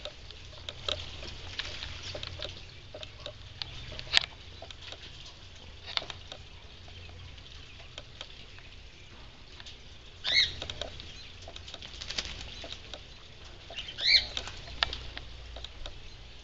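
Sun conure and parakeets splashing in a shallow water dish, a scatter of small splashes and patter of flicked water, with two short high chirps about ten and fourteen seconds in.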